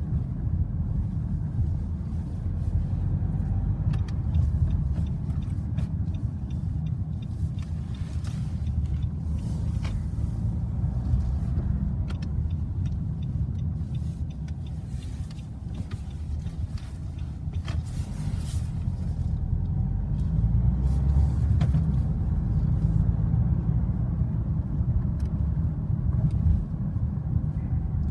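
Road traffic at a level crossing: cars passing with a steady low rumble, and scattered sharp clicks over it.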